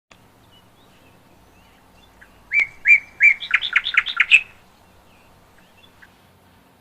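A bird singing one short phrase about two and a half seconds in: two separate notes, then a quick run of about eight notes, over in about two seconds.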